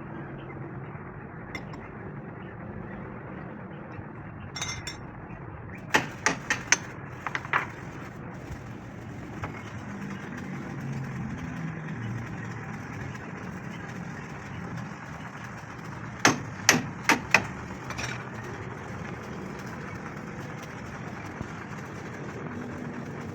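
Hammer blows on steel: a quick run of about five strikes about six seconds in, and another run of four about ten seconds later, over a steady workshop background hum.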